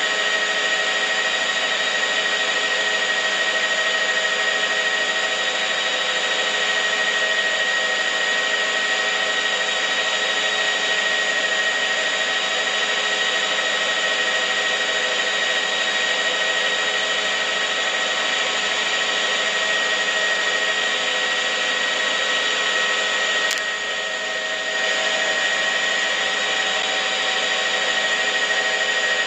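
Steady mechanical whirring noise with a high, even whine, like a running motor or fan. There is a click and a brief drop in level about 23 seconds in.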